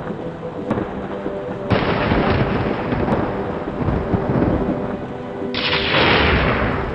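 Thunderstorm: rolling thunder over steady rain, with two sudden louder peals, about two seconds in and about five and a half seconds in. Soft sustained music tones sit underneath.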